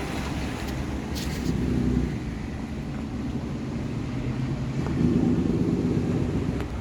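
Low rumble of passing road traffic, swelling twice.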